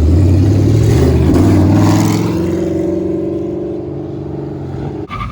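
A car engine revving hard under acceleration, loudest for the first two seconds, then holding a steadier note as it fades away.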